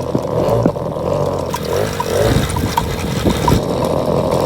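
Suzuki LT50 mini quad's small 49cc two-stroke engine running as it is ridden, its note rising and falling a little about two seconds in.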